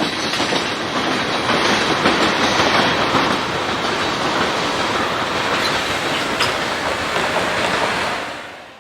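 Freight train rolling past at close range, its wheels clicking steadily over the rail joints. The sound fades away near the end.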